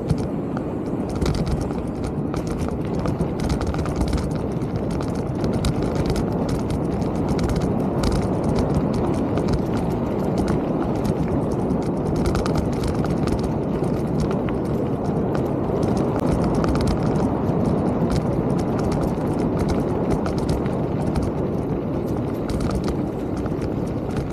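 Mountain bike rolling over a trail: a steady rush of tyre and wind noise with frequent small rattles and knocks from the bike.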